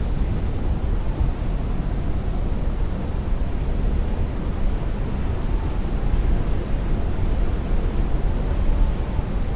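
Heavy rain against a window with strong wind: a steady, deep rushing rumble with the hiss of rain over it.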